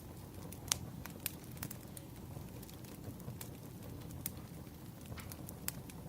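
Wood fire crackling: irregular sharp pops and snaps from burning logs over a steady low rush of flame, the loudest pop about a second in.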